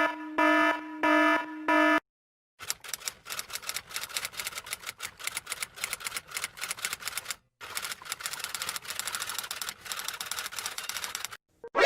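A quick run of four short buzzy electronic beeps, then about nine seconds of rapid clattering typing on keys, with a brief pause partway through. The typing is quieter than the beeps.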